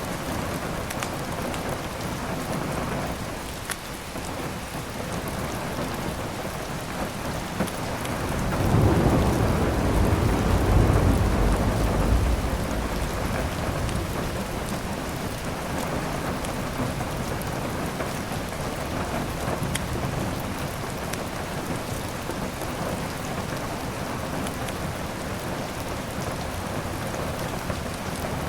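Steady heavy rain, with a low roll of thunder that swells about eight seconds in and dies away a few seconds later.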